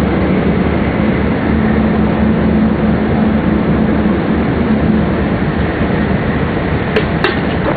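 Cabin running noise of a double-decker MAX Shinkansen, heard from the upper deck: a steady rumble with a faint hum. Two short sharp clicks come near the end.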